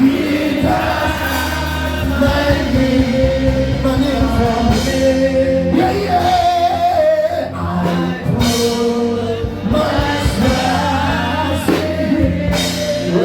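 Gospel music: voices singing over a steady band accompaniment with bass and a beat.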